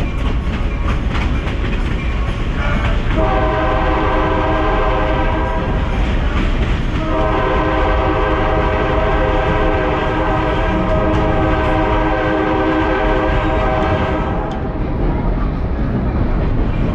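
Train horn sounding two blasts, the first about three seconds long and the second about seven seconds long, over the steady rumble and clatter of the moving train.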